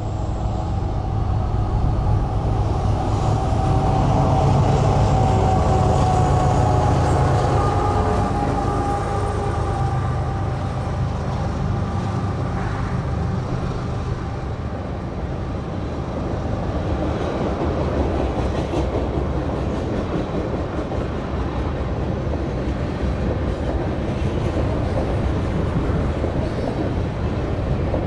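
Canadian National freight train passing close by: its GE diesel locomotives drone past, loudest about four to eight seconds in, then the steel wheels of the freight cars keep rolling and clattering along the rails.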